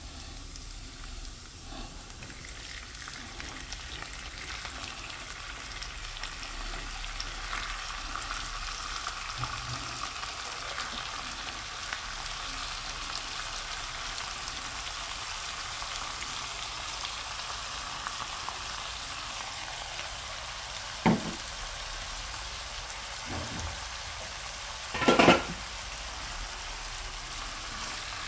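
Squid pieces frying in hot oil with shallots, garlic and ginger in a nonstick wok, a steady sizzle that swells a couple of seconds in as the squid goes in and is stirred with a spatula. Near the end come a sharp knock and then a louder, longer clatter.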